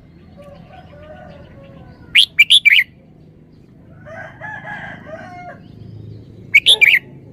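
Red-whiskered bulbul singing two short, loud song phrases of several quick notes, about two seconds in and again near the end, with fainter bird chatter in between.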